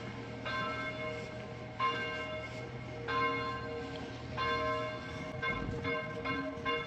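Church bells ringing, a stroke about every second and a bit, each note ringing on, with the strokes coming faster near the end.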